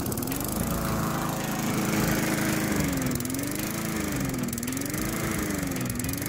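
Briggs & Stratton lawnmower engine running and surging: its speed rises and falls over and over, about once every second and a half, instead of holding steady. This hunting is the mower's fault, the way it is acting up.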